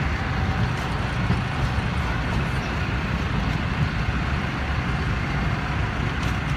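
Zoo train running steadily along its track around a curve, heard from an open passenger car: a continuous low rumble of the locomotive and the wheels on the rails.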